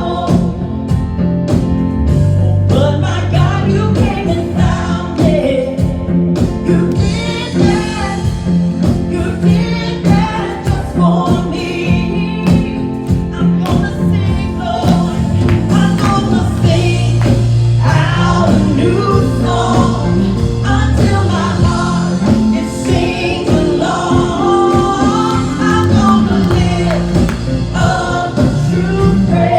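Gospel worship song sung by a group of singers over a band, with held bass notes and a steady drum beat.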